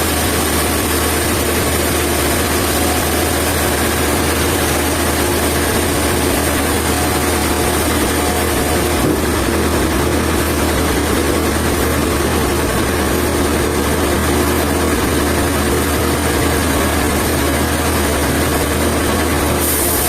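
Sawmill machinery running with a steady, even hum.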